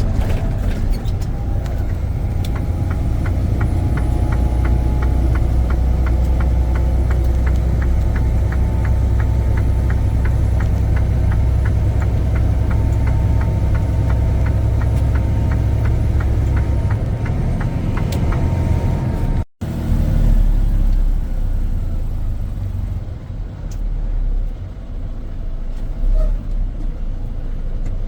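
Semi truck on the road, heard as a steady, loud low rumble of engine and road noise, with a fast, regular ticking over it for the first two-thirds. About two-thirds of the way in the sound drops out for a moment, then the rumble returns lighter and more uneven.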